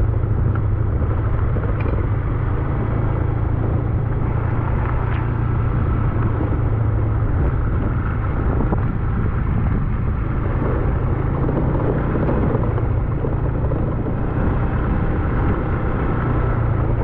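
Motorcycle engine running steadily as the bike is ridden up a mountain road, a constant low drone with wind and road noise over it.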